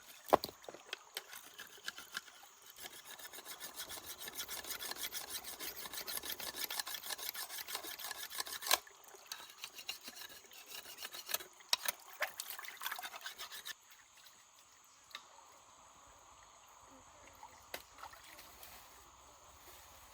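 Fast rhythmic scraping strokes on a hard surface for about six seconds, then scattered clicks and knocks. It goes quieter for the last six seconds.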